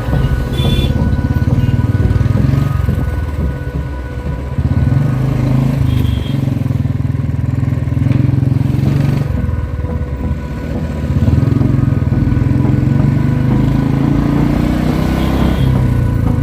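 Motorcycle engine running under way, its pitch shifting a few times as the revs change.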